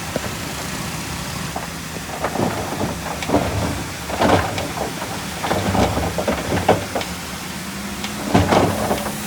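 Heavy diesel machinery engine running steadily, with irregular metallic clanks and scrapes from about two seconds in.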